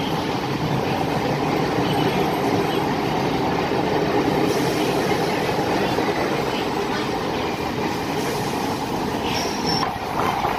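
Chennai MRTS electric suburban train running at speed, heard from an open doorway of a coach: steady wheel-on-rail running noise with rattle from the carriage. A brief high-pitched squeal comes about nine seconds in.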